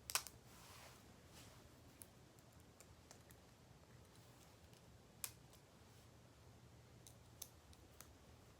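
A few small, sharp clicks of screws and metal parts being handled while assembling a butterfly knife trainer, the loudest right at the start and the rest spread out and faint, over near silence.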